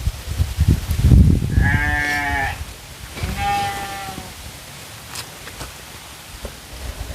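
An animal bleating twice, each call about a second long. Low rumbling noise runs through the first second and a half.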